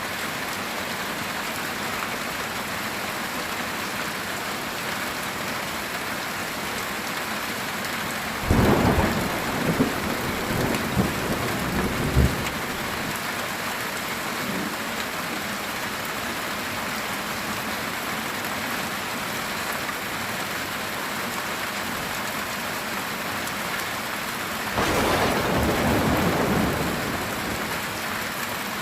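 Heavy rain falling steadily on a metal tin roof, with two claps of thunder: a sharp crackling one about a third of the way in, and a longer rolling rumble near the end.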